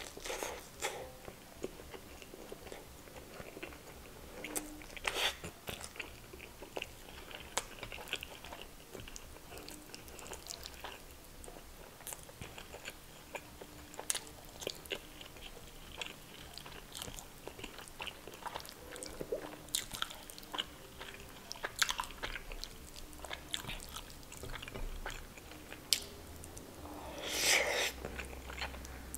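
Close-miked eating sounds: biting and chewing soft garlic naan soaked in chicken tikka masala, with scattered wet mouth clicks and smacks. Near the end comes one longer, louder swell of noise.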